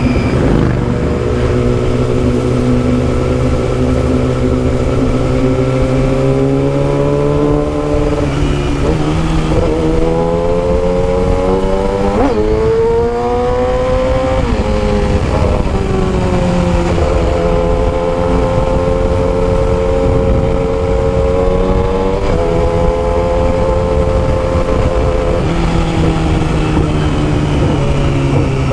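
Yamaha R6's 600cc inline-four engine through a custom exhaust, running under way. Its pitch holds steady, then climbs and drops several times through throttle and gear changes, with one sharp rise and fall near the middle. Wind noise on the microphone sits underneath.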